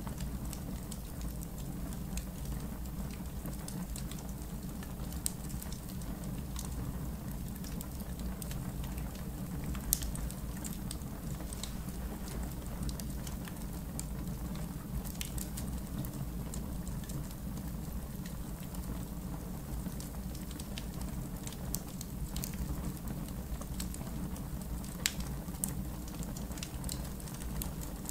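Wood fire in a backyard fire pit crackling: irregular sharp pops and snaps over a steady low rumble, the loudest pop about ten seconds in.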